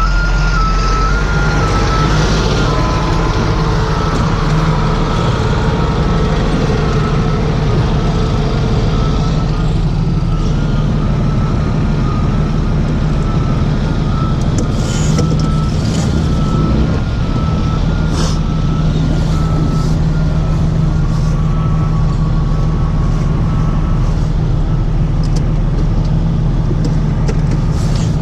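Heavy tow truck's engine running steadily as the truck is manoeuvred, with a thin high tone wavering faintly above it.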